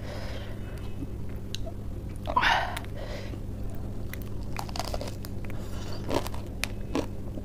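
Close-up biting and chewing of a crisp lettuce leaf wrapped around spicy Wai Wai instant noodles. One loud crunch comes about two and a half seconds in, followed by short crisp crunches while chewing.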